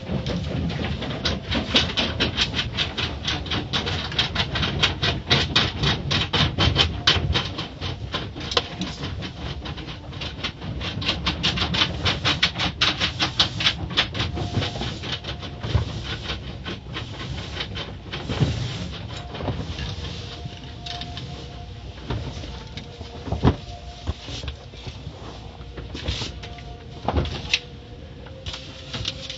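Automatic car wash machinery running: a rapid, even clatter of several strokes a second for roughly the first two-thirds, then quieter with scattered knocks and a faint steady tone.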